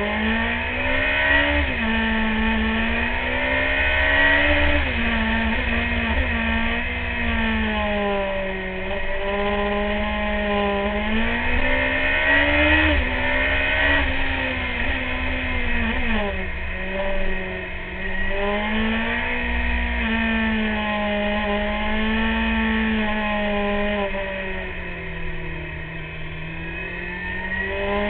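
Sport motorcycle engine heard from an onboard camera, its revs repeatedly climbing and dropping away as the rider accelerates, shifts and rolls off through bends. Wind buffets the microphone throughout.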